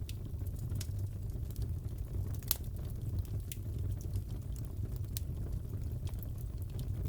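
Wood fire crackling in a fireplace: a steady low rumble of the burning fire with scattered sharp pops and snaps, the loudest about two and a half seconds in.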